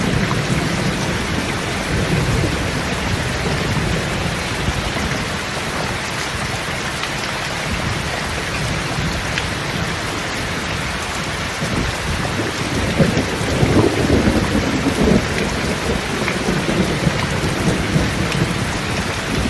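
Rain falling steadily on a zinc sheet roof, with low rumbles of thunder that swell loudest about two-thirds of the way through.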